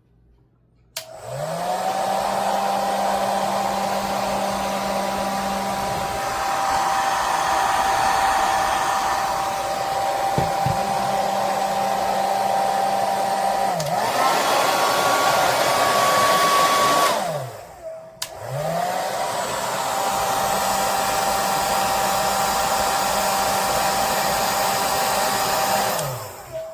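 Revlon infrared ionic hair dryer running: its motor spins up with a rising whine about a second in, then runs with a steady whir and rushing air. About halfway through its pitch steps up, then it winds down and stops. It starts again, runs steadily, and winds down near the end.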